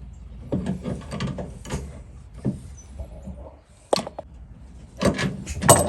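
Irregular clicks and knocks of metal tools and fittings being handled, with a louder cluster of knocks near the end, over a steady low rumble.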